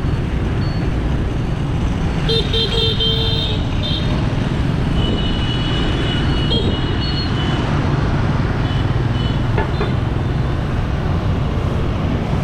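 Motorbike riding in city traffic: a steady rumble of engines and road noise, with vehicle horns honking about two seconds in and again for a couple of seconds around the middle.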